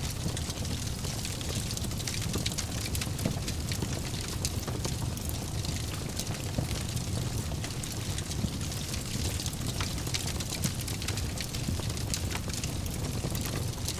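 Fire burning in a fireplace: a steady low rumble with frequent sharp crackles throughout.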